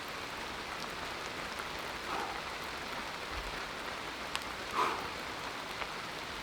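Steady rain falling through the forest canopy, an even hiss with scattered drop ticks. Twice, about two seconds in and again near five seconds, a brief soft puff rises above it.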